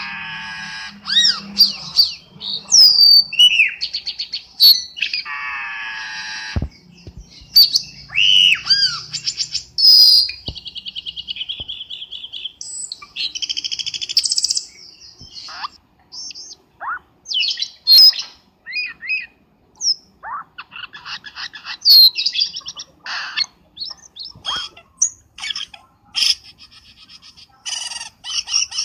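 Cucak keling calls played as a bird-luring track: a busy, varied string of squeaky chirps, gliding whistles, harsh buzzy notes and rapid chattering trills.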